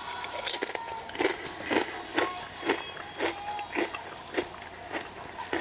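Crunching while chewing a mouthful of kettle-cooked potato chips, about two crunches a second.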